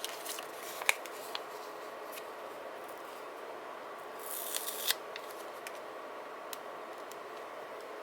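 Desk crafting handling sounds over a steady background hum: a few light clicks and taps, then about four seconds in a short rasping stroke of paper being cut or peeled, ending in a sharp click.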